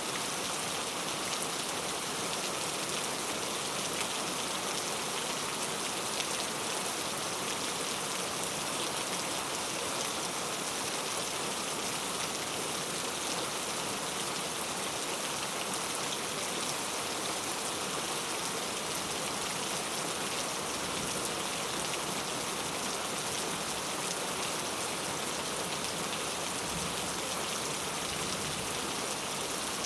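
Heavy rain falling steadily on street surfaces, a dense, even hiss of countless drops.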